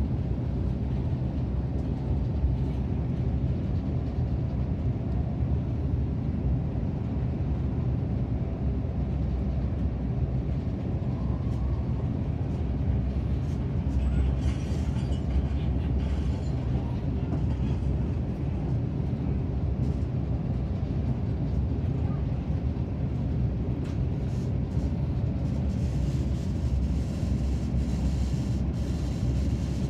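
Steady low rumble of a KTM ETS electric multiple unit running at speed on metre-gauge track, heard inside the passenger car. A higher hiss rises for a few seconds about halfway through and again near the end.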